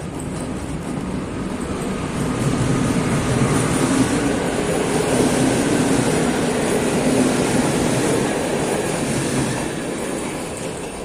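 A passenger train hauled by an EP07 electric locomotive running past, its wheels rumbling on the rails. The noise swells to a peak in the middle and fades away toward the end.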